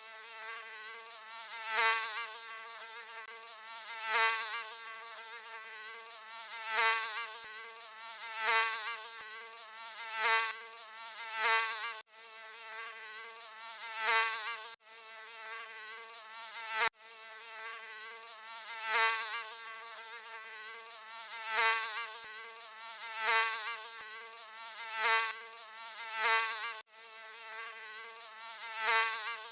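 Mosquito wings buzzing in a steady whine that swells louder and fades back about every two seconds, as in close fly-bys. The buzz cuts out for an instant a few times.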